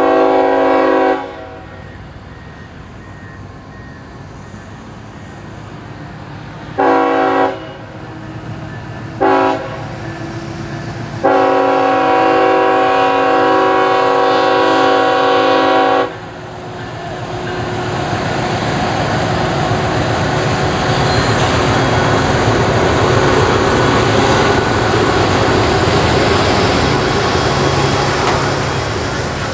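A CSX freight locomotive's multi-chime air horn sounds for a grade crossing: a blast of about a second, two short blasts, then one long blast of about five seconds. The locomotive and its train of freight boxcars then pass close by, a steady rumble of engine and wheels on the rails that grows as the train draws level.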